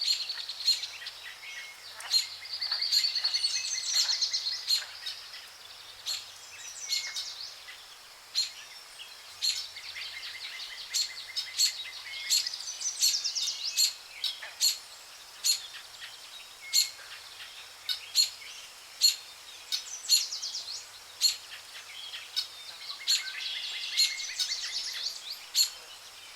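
Wild birds singing and calling: rapid high trills and warbles, cut through by sharp chip notes about once a second.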